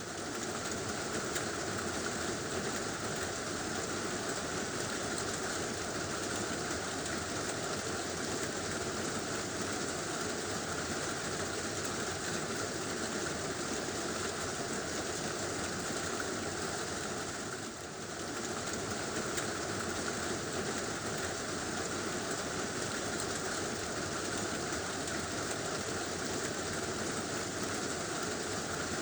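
Heavy rain falling on a tin roof, a steady dense noise that dips briefly about eighteen seconds in.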